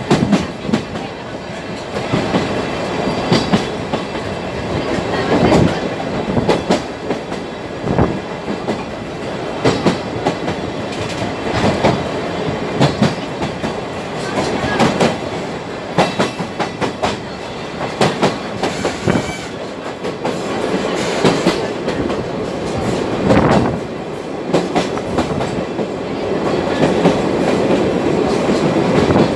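Sagano trolley train running along the line, heard from inside the carriage: a steady rumble with wheels clacking irregularly over rail joints.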